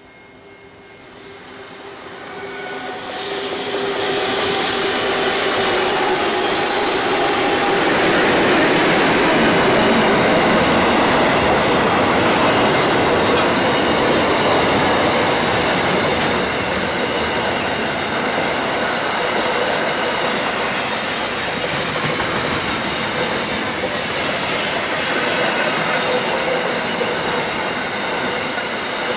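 A freight train passing close by. The lead SCT diesel-electric locomotives approach and go by, rising to a loud, steady rumble within about four seconds. Then a long string of container and van wagons rolls past, their wheels clattering on the rails.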